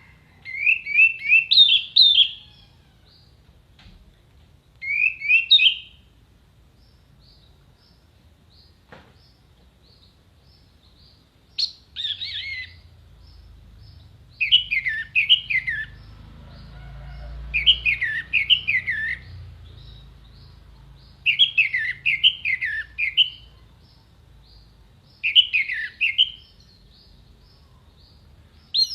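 Orange-headed thrush singing in short phrases of rapid, high, sliding notes, about seven phrases with pauses of a few seconds between them.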